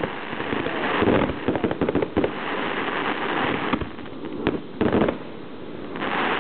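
Fireworks going off: a fast volley of bangs at first, then steady crackling and hissing, with a few sharp single bangs later on.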